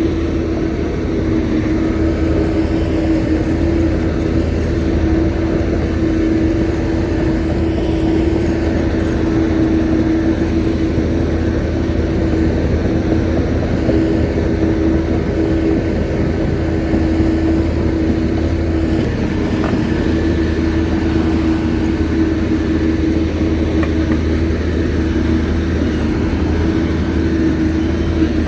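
Shantui bulldozer's diesel engine running steadily, with a constant low drone and a steady hum above it.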